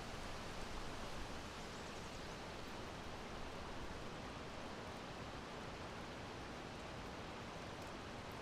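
Steady wind noise: an even, continuous breeze hiss with no gusts or breaks.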